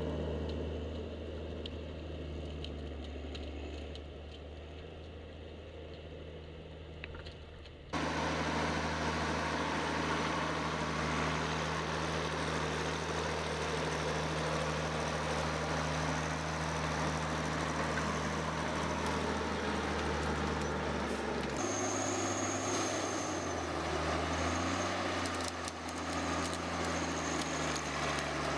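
An engine running steadily. The sound changes abruptly twice, about a third of the way in and again near three quarters, and the engine pitch dips briefly a few seconds after the second change.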